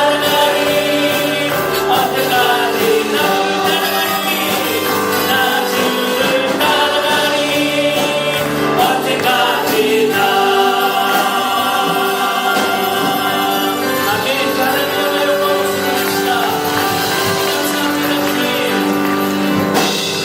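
Christian worship song sung by a group of voices with instrumental accompaniment.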